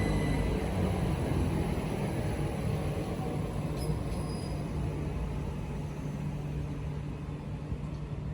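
Class 387 electric train at the platform: a low rumble that slowly dies away, with a thin high whine fading early and a steady low electrical hum settling in.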